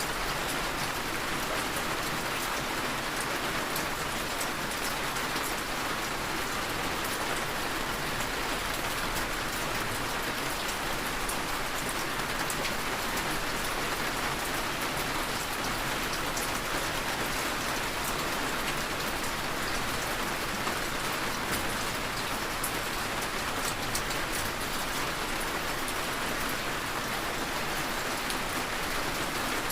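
Heavy rain falling steadily, an even hiss with many fine drops pattering on surfaces.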